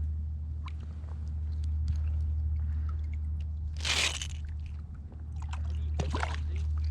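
Steady low rumble of wind buffeting the microphone, with scattered small clicks and two short bursts of noise about four and six seconds in.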